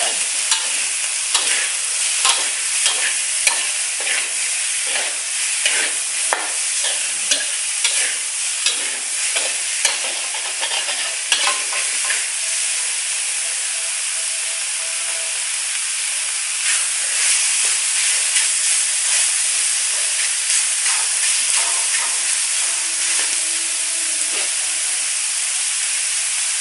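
Diced pork belly with garlic sizzling in hot oil in a metal wok, the raw pork beginning to give off its own fat. A metal spatula scrapes and knocks against the wok every second or so for the first twelve seconds or so; after that the sizzling runs on steadily with only the odd stir.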